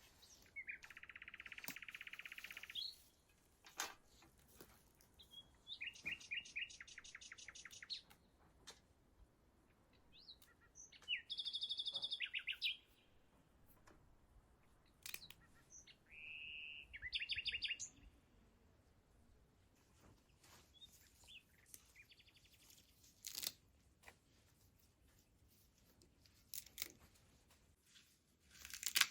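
Small birds chirping, in about five short phrases of quick repeated high notes and trills spread through the stretch, with scattered faint clicks between them.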